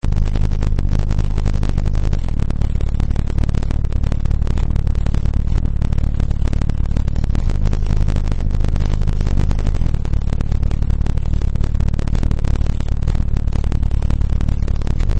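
18-inch Kicker Solo-X subwoofer in a ported enclosure tuned to 32 Hz playing bass at very high level. It comes through as a steady, heavily distorted low rumble.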